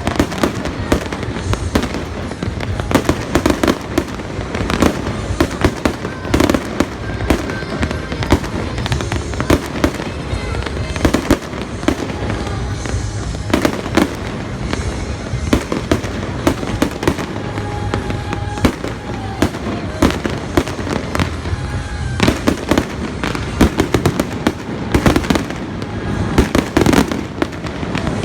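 Fireworks display: a dense, continuous barrage of bangs and crackling bursts, with music playing underneath.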